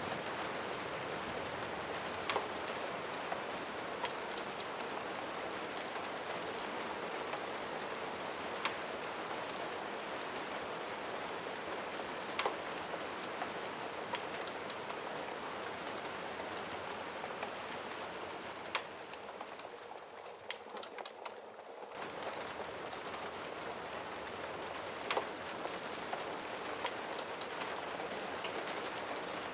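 Steady rain falling, with a few sharp clicks scattered through it. About two-thirds of the way in, the rain briefly fades quieter and then cuts back in suddenly.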